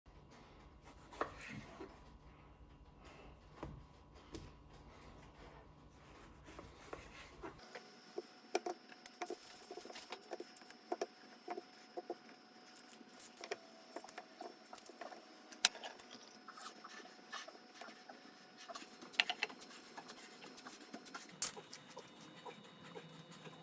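Quiet background with scattered small clicks and taps, a few of them louder, and the background changing abruptly twice.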